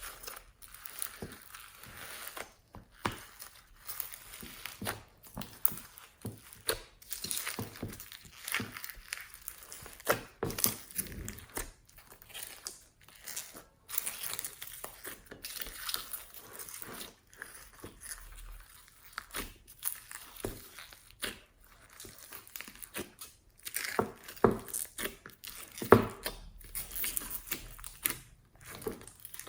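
Hands squishing, stretching and folding slime, giving irregular sticky crackles and pops.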